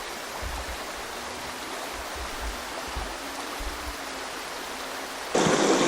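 Flowing water of a stream, a steady rushing hiss. Shortly before the end, a much louder rush of water noise starts suddenly.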